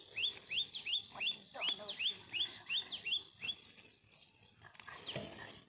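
A bird calling a rapid, even series of short upswept chirps, about three a second, that stops about three and a half seconds in.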